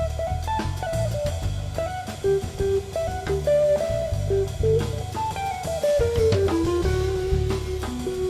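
A live jazz trio of electric guitar, cello and drum kit playing an instrumental tune. A melody of held, stepping notes slides down about six seconds in, over sustained low notes and steady drumming.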